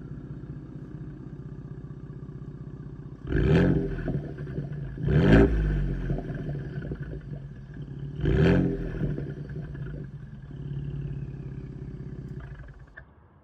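Ford Bronco engine with an active exhaust idling, then revved briefly three times, each rev rising and dropping back quickly. It then runs a little louder for a couple of seconds before going quiet near the end.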